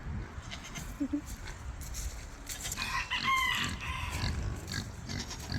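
A rooster crows once, about three seconds in, a single call of about a second.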